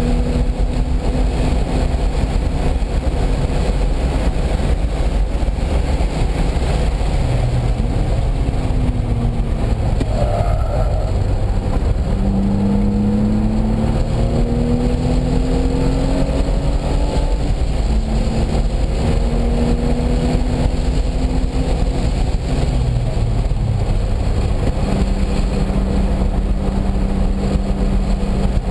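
Car engine under hard acceleration on a race track, its note climbing several times and dropping back between climbs as it shifts up through the gears, over continuous road and wind noise.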